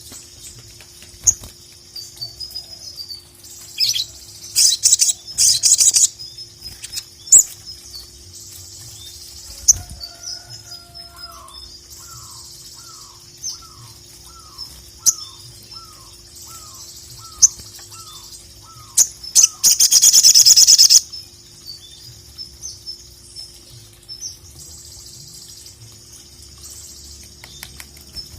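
Sogok ontong (sogon) sunbird singing: a run of high, rapid chirps and trills, with loud dense bursts about four seconds in and again near twenty seconds in. In the middle a slower series of about a dozen short falling notes, lower in pitch, repeats evenly about twice a second.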